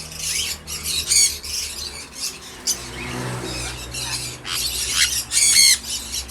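Caged cockatiels and other small parrots squawking and chirping, many short overlapping calls, loudest about five seconds in.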